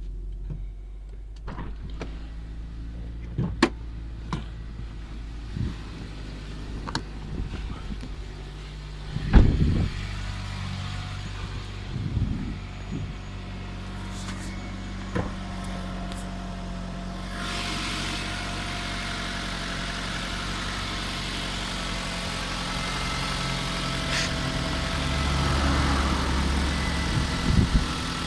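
Second-generation Kia Sorento engine running at idle, the engine that has the knock the video is about, with a few scattered sharp knocks and thumps. The sound grows louder and hissier about two-thirds of the way in.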